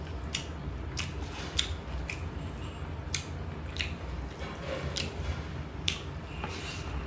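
Mukbang eating sounds: chewing chicken liver and crisp fried pieces with wet lip-smacks and mouth clicks, about nine sharp smacks at irregular intervals, over a low steady hum.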